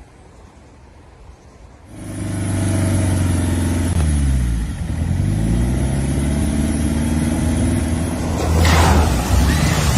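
A motor vehicle's engine comes in loud about two seconds in and runs steadily, its pitch dropping briefly around the middle, with a rushing wash of noise near the end.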